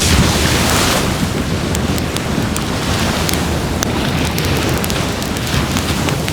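Wood fire burning in a fire pit, crackling with many sharp pops over a steady low rushing noise. There is a louder surge of rushing noise about the first second.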